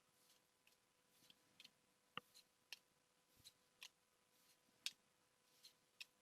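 Faint, scattered clicks and soft ticks of Pokémon trading cards being handled and flipped through, about a dozen short, irregular sounds over a quiet background.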